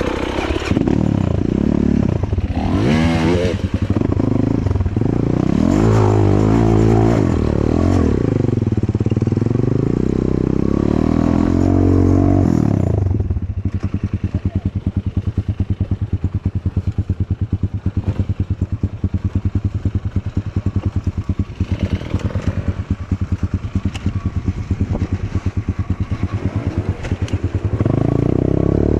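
Enduro motorcycle engine revving up and down as the throttle is worked for the first dozen seconds, then dropping to a low, even chugging at low revs before revving up again near the end.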